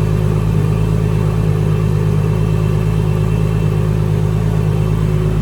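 Turbocharged Nissan RB25 NEO straight-six engine running at a steady, unchanging speed.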